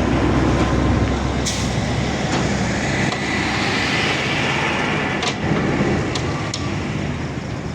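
Heavy diesel truck engine running steadily at idle with a deep rumble that eases a little about three and a half seconds in, and a few sharp clicks or knocks.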